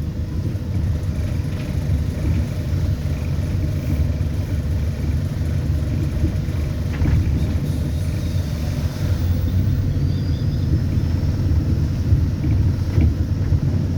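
Interior sound of an ADL Enviro400 Hybrid double-decker bus under way: a steady low rumble, with a faint high whine that rises slowly about ten seconds in.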